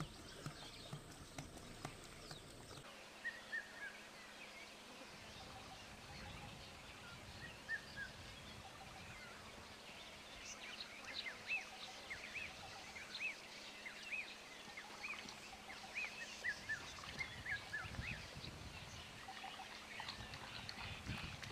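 Many short bird chirps over a steady outdoor background. At the start and again near the end, a male lion laps water with quick, low, rhythmic strokes.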